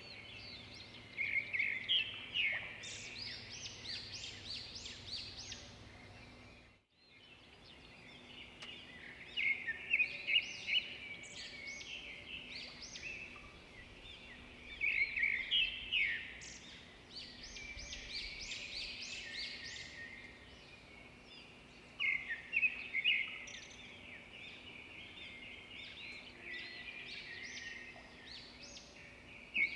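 Songbirds chirping and singing in bouts of quick high notes every several seconds, over a faint steady hiss, with a brief dropout about seven seconds in.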